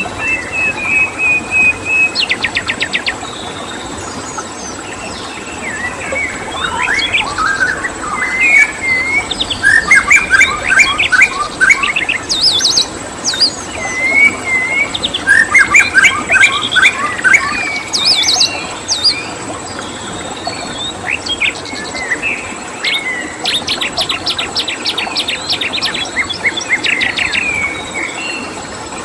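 Several songbirds singing and chirping over one another, with fast trills and quick repeated chirp series, busiest in the middle and again near the end. A steady high-pitched tone and a faint hiss run underneath.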